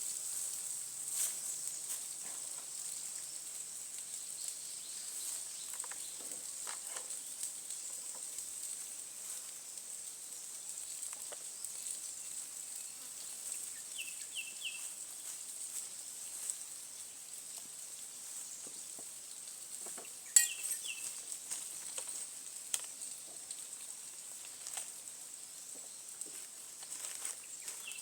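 A steady high-pitched hiss, with scattered faint clicks and one sharper click about two-thirds of the way through. Three brief chirps come through about halfway, again around two-thirds of the way, and near the end.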